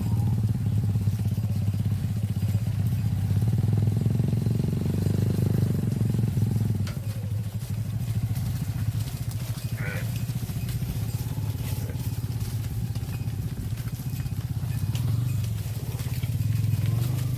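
A small engine running steadily with a low, even pulse, easing off a little about seven seconds in. A short higher-pitched call is heard once near the middle.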